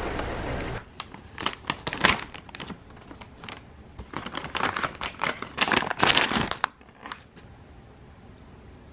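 Packaging crinkling and rustling as it is handled, in a run of quick crackly strokes for about six seconds before the room goes quiet. Before that, a steady low rumble cuts off just under a second in.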